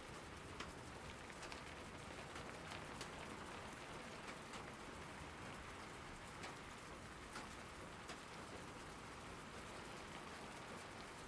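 Steady rain falling, an even hiss with scattered sharp drop hits on a nearby surface.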